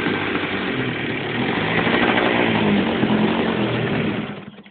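OS 120 glow engine on a large model aircraft running after a hand-flicked start, its pitch rising about halfway through. It then dies suddenly near the end: the engine has run out of fuel.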